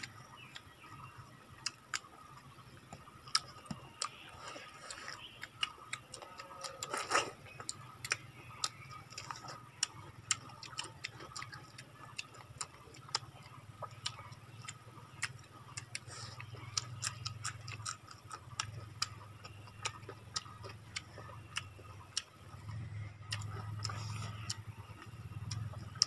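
Close-up eating sounds of two people chewing rice and chicken with lip smacks, heard as irregular sharp clicks a few times a second over a faint low hum.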